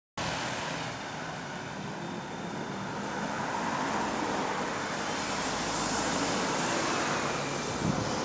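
Bus engine running under way with its exhaust leak blowing, the engine and exhaust noise building louder over several seconds as the bus picks up.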